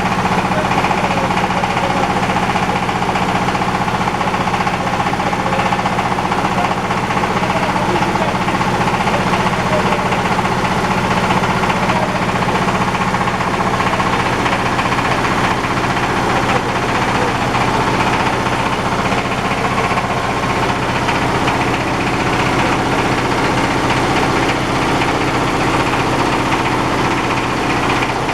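Diesel-engine rice husker running: the diesel engine runs at a steady speed, driving the husking machine.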